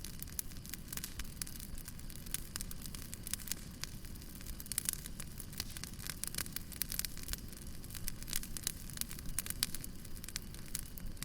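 Fireplace fire crackling, with many quick irregular pops and snaps over a steady low rumble.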